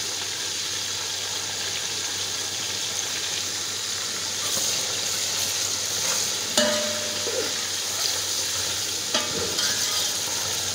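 Onions, tomatoes, green chillies and crushed garlic sizzling in hot ghee in a metal pot while a metal ladle stirs them. The sizzle grows louder about halfway in, and the ladle knocks against the pot twice, about two-thirds of the way in and again near the end.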